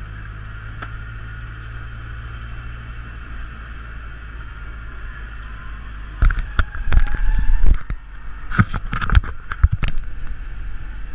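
A Nissan 240SX's SR20DET engine running at low, steady revs, heard from inside the cabin. From about six seconds in, a cluster of loud, sharp knocks and thumps.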